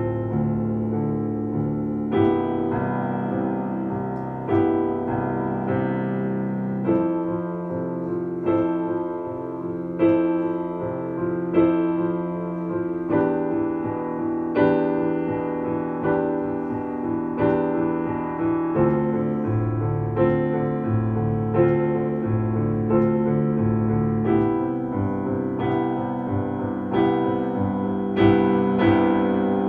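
Solo piano playing a slow piece in A minor: chords and melody notes struck about every one to two seconds and left to ring over held bass notes.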